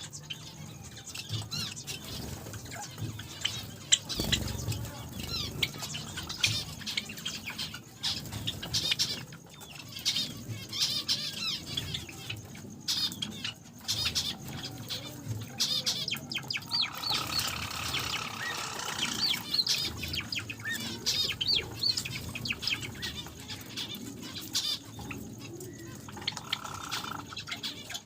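A flock of small cage finches, among them Java sparrows and zebra finches, chirping and calling constantly, with wings fluttering and many short taps and clicks throughout.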